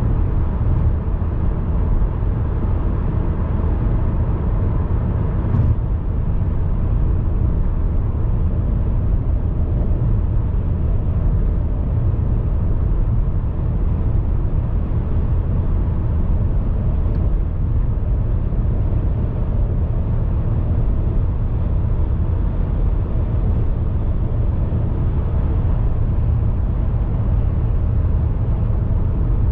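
Steady, even rumble of a car being driven, road and engine noise with most of its weight in the low end.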